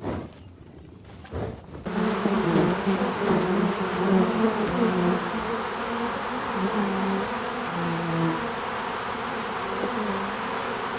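Insects buzzing: many overlapping buzzes, like a swarm, starting about two seconds in and running on steadily.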